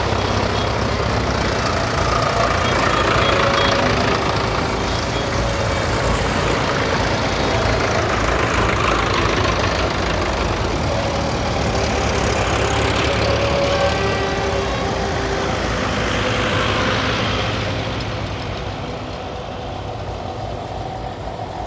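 A procession of tractors driving past one after another, their engines running, the sound swelling as each one goes by and easing off near the end.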